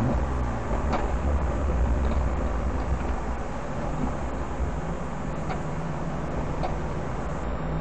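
Aston Martin Vantage's engine running at low speed, heard from inside the cabin as a steady low drone, swelling slightly about a second in.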